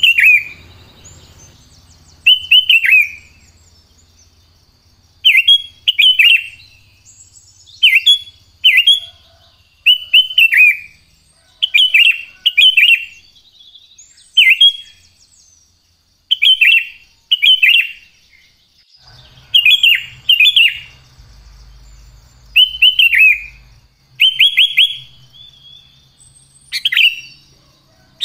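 Sooty-headed bulbul (kutilang) singing loudly in short, repeated phrases of two or three quick downward-sliding whistled notes, one phrase every second or two. A faint steady high whine runs beneath.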